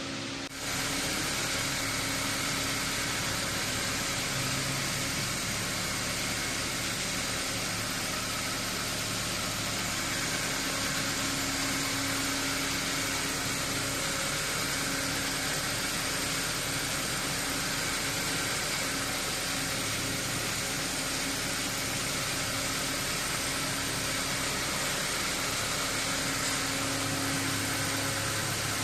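Steady mechanical running noise: an even hiss with a constant low hum, starting abruptly about half a second in and holding level throughout.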